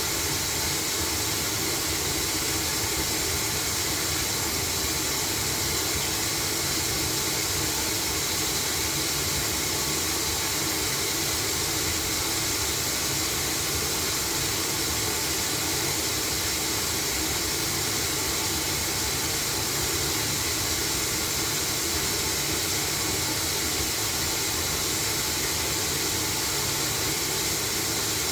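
LG front-load washing machine running mid-cycle: a steady, even hum and hiss with no breaks or knocks.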